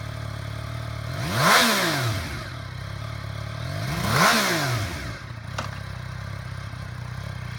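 2017 Yamaha XSR900's liquid-cooled inline three-cylinder engine idling, revved twice with quick throttle blips, about a second and a half in and again about four seconds in, each rising in pitch and falling back to idle.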